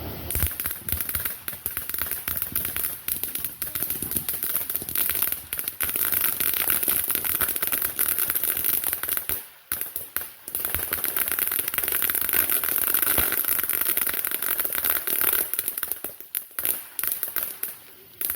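Consumer fireworks crackling: a dense, rapid run of small pops over a hiss, with a short break about ten seconds in and the pops thinning out near the end.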